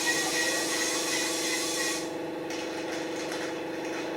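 Racing trucks' diesel engines running hard, a steady drone with a wavering higher whine above it; the upper hiss falls away about two seconds in.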